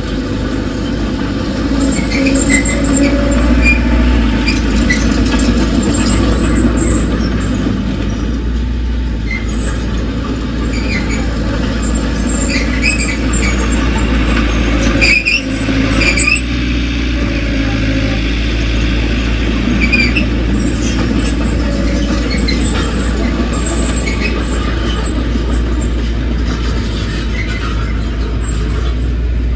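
Bulldozer's diesel engine running with a steady low rumble, with short high squeaks and squeals coming again and again over it.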